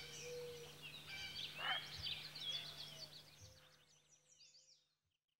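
Faint birdsong: small birds chirping in quick rising and falling whistled notes over a low steady hum, fading out a little past halfway.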